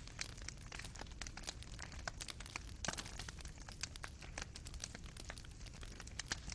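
Fireplace fire crackling, with irregular small pops and snaps from the burning coals over a low steady rumble. A few louder pops come about three seconds in.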